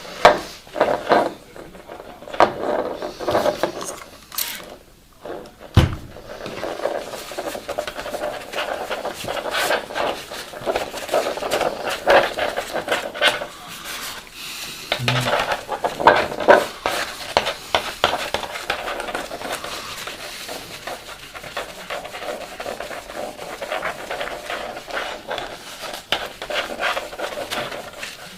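Hard objects being handled: irregular rubbing, scraping and small clicks and knocks, with a single low thump about six seconds in.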